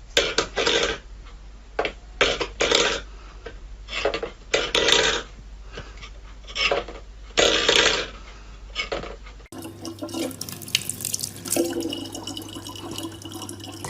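Water splashing in a string of short bursts. After a cut, water runs steadily from a tap over a constant low hum.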